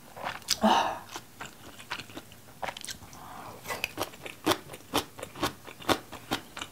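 A person chewing a mouthful of food close to the microphone: sharp mouth clicks and smacks, sparse at first and then about three a second in the second half.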